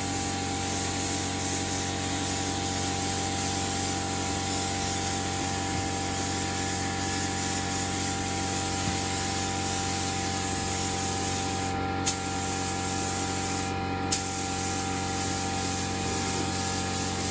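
A paint spray gun hissing steadily as it lays another coat of paint on engine parts, with two brief clicks a couple of seconds apart late on.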